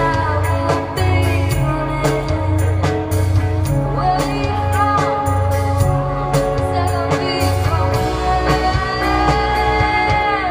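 Live band playing a song: a woman singing a gliding melody over guitar, a pulsing bass line and drums.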